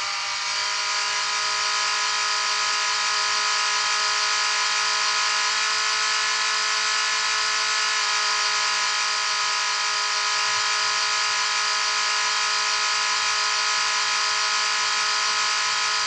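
Car's electric radiator cooling fan running at full speed, a steady motor whine over a rushing hiss of air: the fan has been switched on because the coolant has reached about 95 °C.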